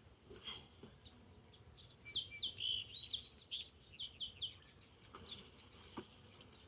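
A small songbird singing: a run of quick, high chirps lasting a few seconds through the middle.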